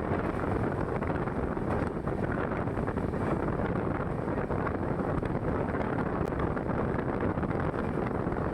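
Express passenger train running along the line: a steady rumble of the moving coaches, with wind buffeting the microphone.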